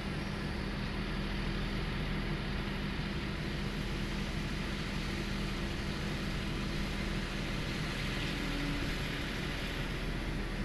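Excavator diesel engine running steadily, a constant low hum under a broad mechanical noise.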